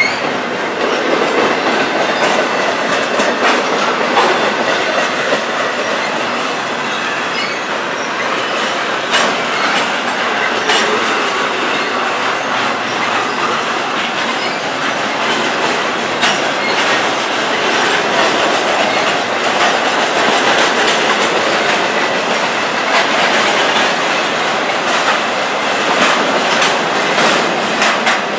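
Double-stack intermodal freight train's well cars rolling past, a steady rumble of steel wheels on rail with scattered sharp clicks of wheels over the track and a faint high wheel squeal.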